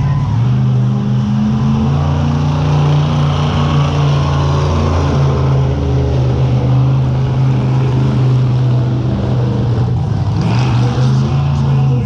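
Monster truck's big-block V8 held at high revs while the truck spins donuts, its pitch staying nearly level with small shifts up and down.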